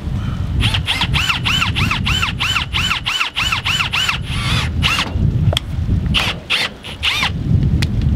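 A bird calling in a rapid series of squealing, arched notes, about four a second, with a short second run near the end. A low rumble of wind on the microphone runs underneath.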